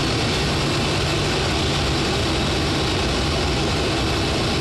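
Boeing 737-800's CFM56 jet engines running steadily on the ground: a constant rushing noise over a low hum.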